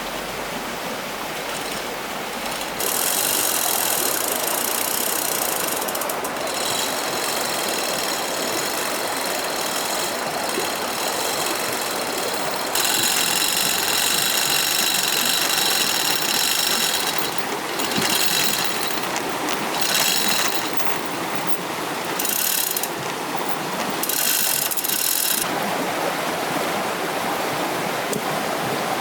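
A power tool running in several bursts that start and stop abruptly, with a high whine, over the steady rush of flowing stream water.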